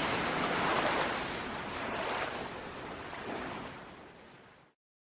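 Sea surf washing in slow swells, fading out and then cutting to silence near the end.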